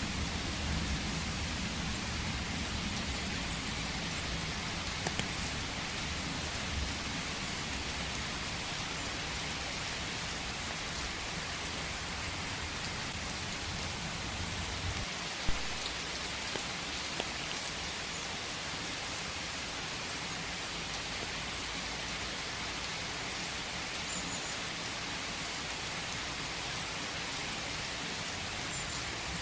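Steady rain falling, with scattered individual drops ticking close by and one sharper drop hit about halfway through.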